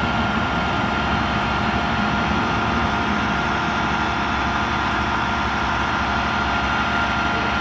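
Concrete boom pump truck's engine running steadily, with a thin steady whine over the engine noise.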